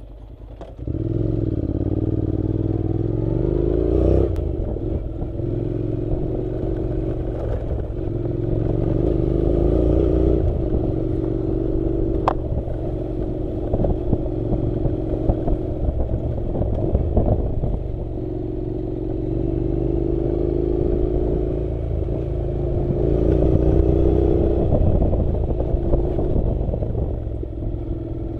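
Honda NC700's parallel-twin engine running at low revs under way on a dirt road, its pitch rising and dropping back several times, over a low rumble and loose clatter from the bike on the rough surface.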